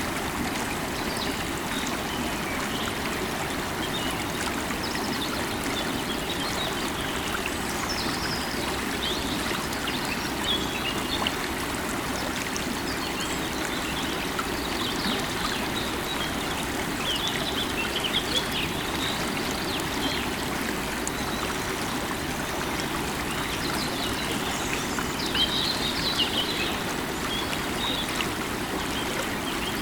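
River water running steadily over stones. Birds chirp briefly now and then above it.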